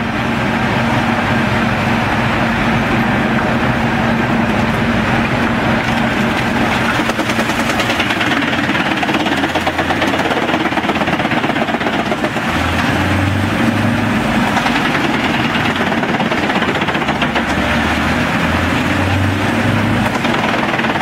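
Pezzolato PTH 1200/1000 M tracked drum chipper running, driven by its 600 hp Scania DC16 eight-cylinder diesel engine: a loud, steady mechanical din. The low engine note swells twice in the second half.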